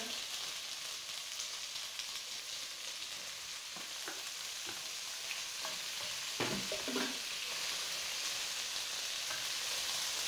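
Chicken pieces and diced tomatoes sizzling steadily in a hot pot as they are stirred with a wooden spoon. A few knocks and scrapes of the spoon against the pot come through, the loudest cluster a little past the middle.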